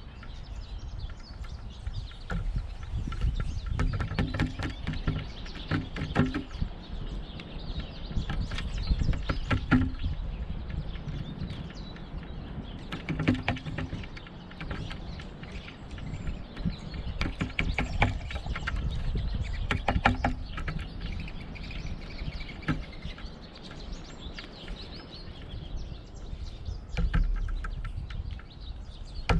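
A pileated woodpecker pecking at a suet feeder: short clusters of rapid knocks every few seconds, over a steady low rumble.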